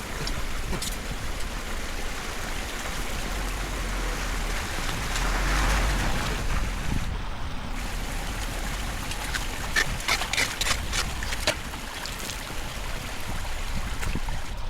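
Rainwater flowing and gurgling into a storm drain as it is cleared, a steady rushing hiss with a low rumble. A few short clicks or knocks come about two-thirds of the way in.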